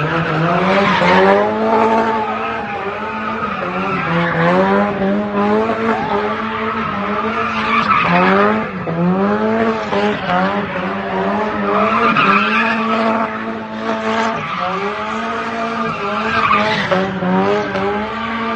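A car's engine held at high revs during donuts or a burnout, its pitch dipping and climbing back again every second or two, with the tyres squealing.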